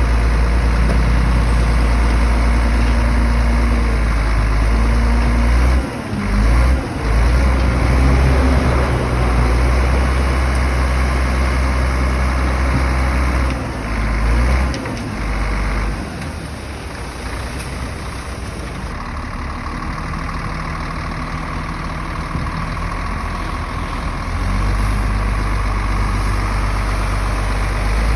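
Diesel engine of a heavy earthmoving machine running, loud and steady, with a few brief dips in level. It eases to a lower level through the middle and picks up again near the end.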